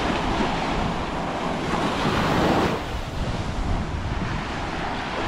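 Surf washing on the shore with wind buffeting the microphone, the wash swelling louder for a moment about two seconds in.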